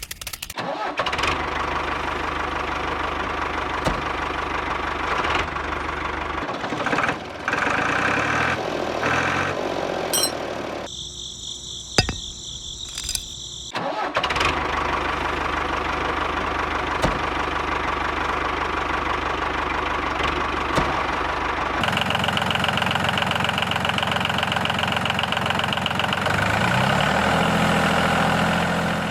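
A small motor running steadily, interrupted for a few seconds near the middle by a higher, thinner tone, then running again with its pitch shifting toward the end.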